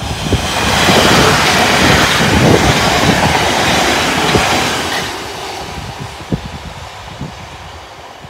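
South Western Railway Class 450 Desiro electric multiple unit passing close by at speed: a loud rush of wheel and rail noise that builds over the first second and fades after about five seconds, with low clattering underneath.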